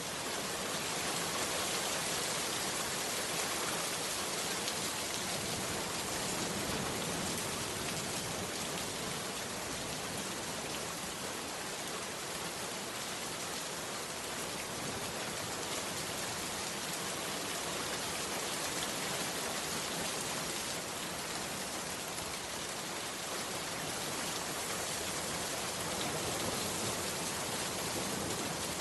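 Heavy rain falling steadily, an even hiss without let-up.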